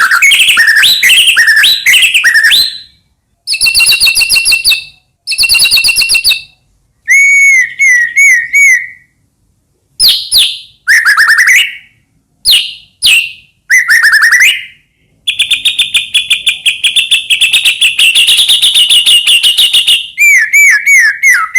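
White-rumped shama (murai batu) singing loudly in separate phrases of clear, gliding whistles and quick trills with short pauses between them. In the second half it delivers a long, fast run of rapidly repeated notes lasting about five seconds.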